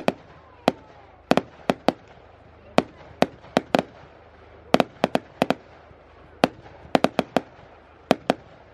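Fireworks going off: about twenty sharp cracks at uneven intervals, two or three a second, some in quick clusters.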